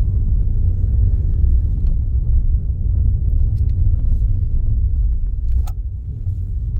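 Steady low rumble of road and engine noise inside a moving car, with a brief click about five and a half seconds in.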